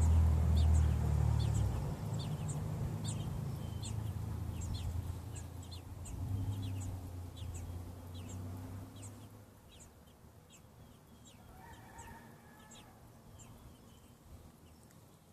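Newborn American robin nestlings peeping: a quick run of short, high, thin calls, about two or three a second, that fades away after about ten seconds. A low rumble sits underneath, loudest in the first couple of seconds.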